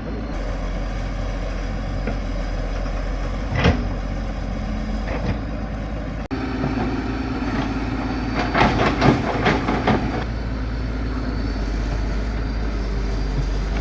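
A heavy engine running steadily, with a knock about a third of the way in and a run of clanks and clatter a little past the middle.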